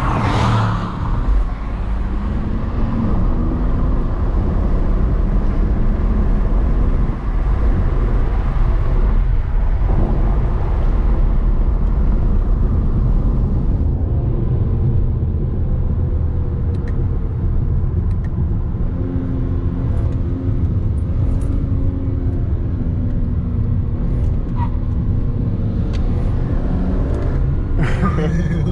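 A car driving, with a steady low engine and road rumble. The engine note slowly rises and falls as the car changes speed.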